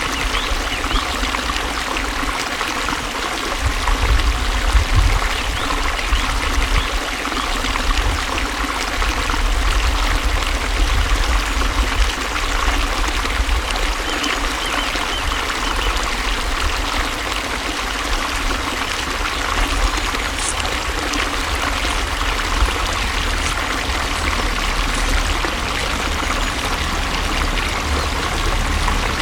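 Water flowing steadily, a continuous rushing and trickling, with an uneven low rumble underneath.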